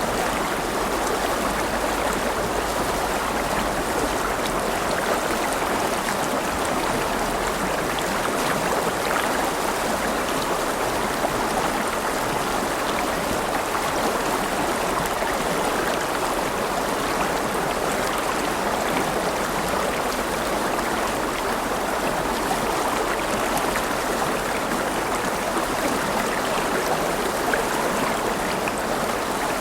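River water flowing steadily over stones, a continuous even rushing and babbling.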